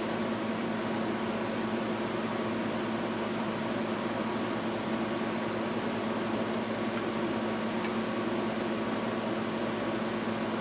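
A steady mechanical hum, fan-like, holding a few constant pitches, with one faint tick about eight seconds in.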